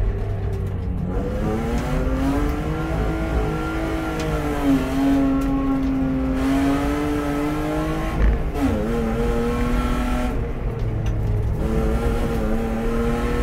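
BMW E36 320i race car's 2.0-litre straight-six engine heard on board under hard acceleration: the revs climb for the first four seconds or so and hold high, drop sharply at a gear change about eight and a half seconds in, fall lower around ten seconds in, then rise again.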